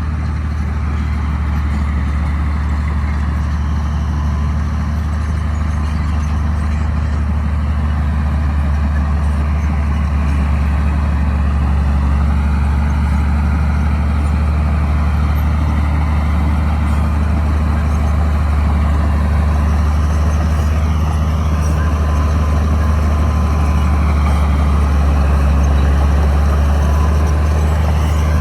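Bulldozer's diesel engine running steadily with a deep rumble, growing slightly louder toward the end.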